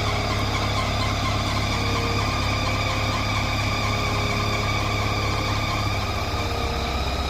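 Bulldozer's diesel engine running steadily, with a steady high whine held above the engine note.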